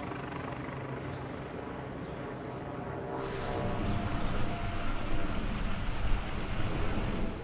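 A steady engine rumble with a low hum. The sound changes abruptly about three seconds in, then grows louder toward the end.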